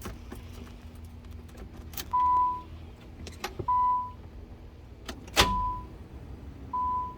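The car's electronic warning chime beeps, a steady single tone about half a second long, four times at roughly one-and-a-half-second intervals while the ignition is switched on. Sharp clicks come between the beeps, the loudest about five seconds in.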